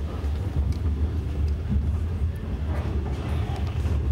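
Steady low rumble of a moving passenger train, heard from inside the carriage, with a few faint clicks.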